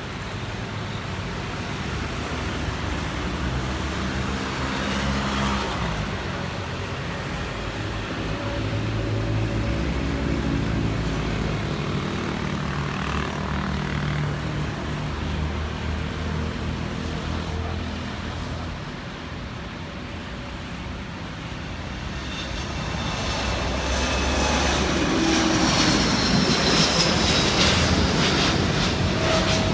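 Airbus A330neo's Rolls-Royce Trent 7000 turbofans at takeoff power: a steady, wavering jet rumble that grows louder near the end, joined by a high whine that falls slightly in pitch.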